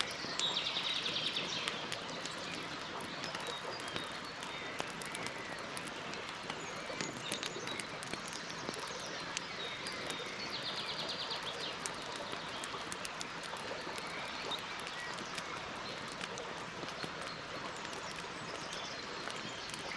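Wood campfire crackling with frequent small pops and snaps, under a steady hiss. A bird trills in rapid repeated high notes twice, near the start and again about halfway through.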